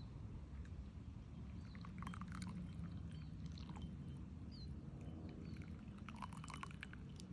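Outdoor ambience: a steady low rumble with a few short, high, falling chirps, and two brief spells of light clicking and rustling, about two seconds in and again near the end.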